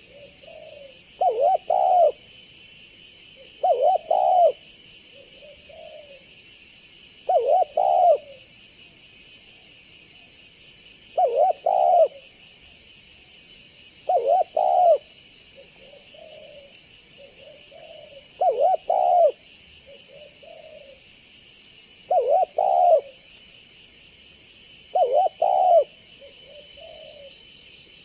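Spotted dove (tekukur) cooing its song phrase eight times, about every three to four seconds: a quick pair of notes and a longer coo, then a softer trailing coo. A steady high hiss runs behind the song.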